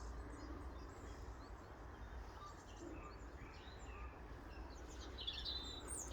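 Small birds chirping and calling faintly, with scattered short high chirps throughout and a busier run of chirps about five seconds in, over a low steady outdoor rumble.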